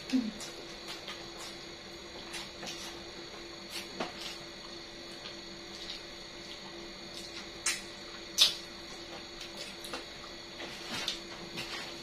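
Close-up eating sounds of chicken feet and petai being chewed: scattered mouth clicks and smacks, the loudest about eight and a half seconds in, over a steady hum.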